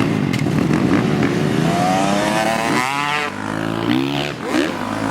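Dirt bike engine revving hard: its pitch climbs steeply about two seconds in, then drops and rises again in shorter revs.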